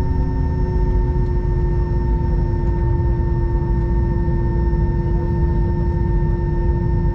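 Cabin noise inside an Airbus A321: a steady low rumble under several held engine whine tones, with the lowest whine settling slightly lower in pitch near the start.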